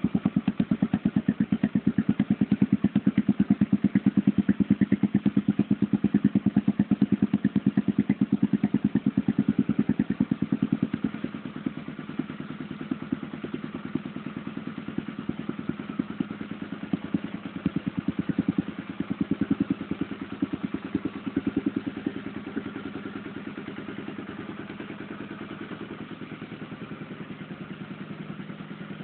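Honda Tornado 250 single-cylinder motorcycle engine running through a WACS aftermarket exhaust, with a fast, even train of exhaust pulses. It runs louder for about the first third, then settles quieter and steady.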